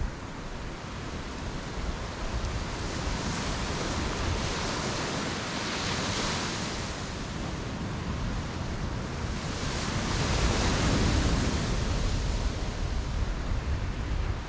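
Ocean surf: waves breaking and washing up the beach in a steady wash, swelling about six seconds in and again around ten to eleven seconds, over a low rumble.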